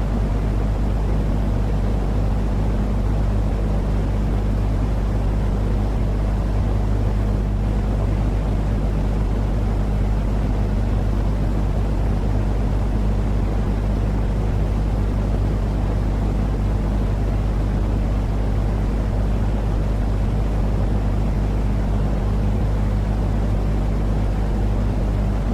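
Steady, unchanging low-pitched noise with a constant hum underneath, used as a baby-soothing sleep noise.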